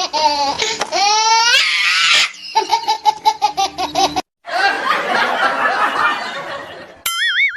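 Added laughter sound effects: a rapid, rhythmic 'ha-ha-ha' laugh, broken about a second in by a rising whistle-like glide and a brief rush of noise. After a short cut to silence comes a noisy stretch of laughter, and near the end a short wobbling cartoon tone.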